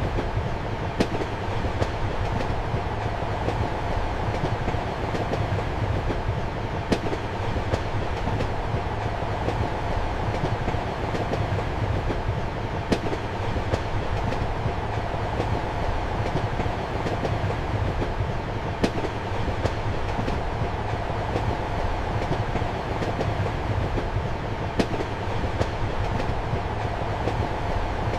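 Steady rumble of a moving passenger train heard from inside a compartment, with the wheels clicking over rail joints. A louder click comes about every six seconds, with fainter ones between.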